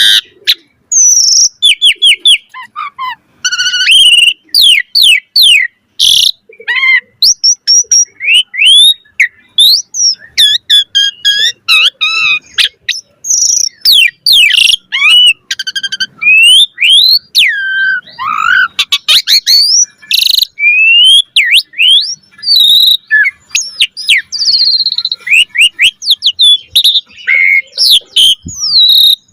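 Asian pied starling (jalak suren) in full song: a long, varied run of loud whistles, rising and falling slurred notes and rapid chattering phrases, broken only by brief pauses.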